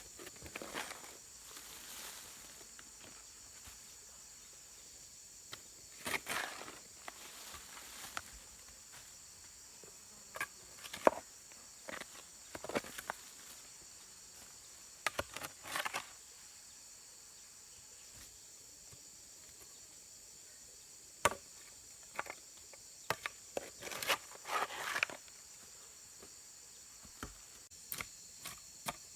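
Insects chirring steadily at a high pitch, with scattered short knocks and rustles from work by hand.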